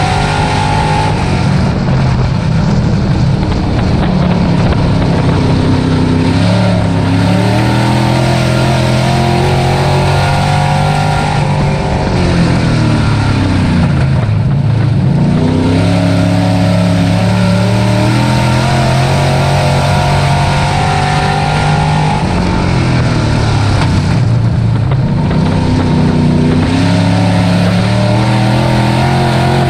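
Dirt-track race truck engine running hard at racing speed. Its note drops sharply and climbs back twice, about halfway through and again near the end.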